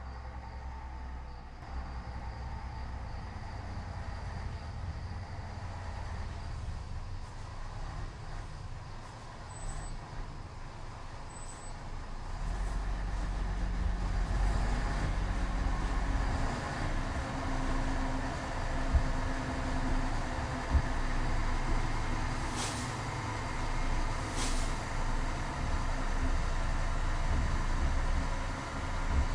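Radio-controlled model truck's motor running steadily, growing louder about twelve seconds in, with two short sharp knocks later on.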